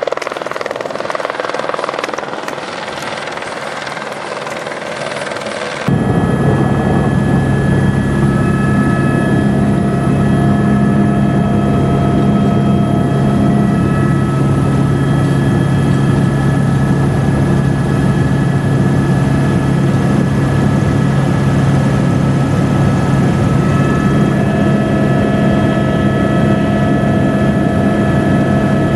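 Helicopter running. About six seconds in, the sound changes abruptly from a hissing rush to a louder, steady drone with a low hum.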